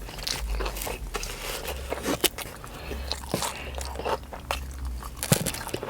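A person chewing a mouthful of food close to the microphone: many small, irregular mouth clicks and crunches.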